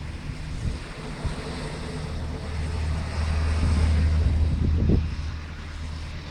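Blizzard wind buffeting the microphone with a steady hiss, and a low rumble that swells for a couple of seconds in the middle, then fades.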